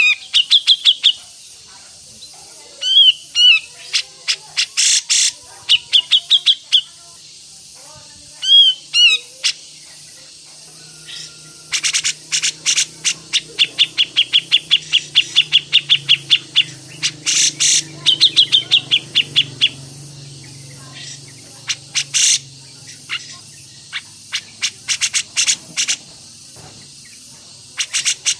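A songbird calling in loud, sharp, repeated chirps, each a quick up-and-down note. There are short clusters for the first ten seconds, then a long rapid run of evenly spaced chirps, about four a second, for roughly eight seconds, followed by scattered single notes.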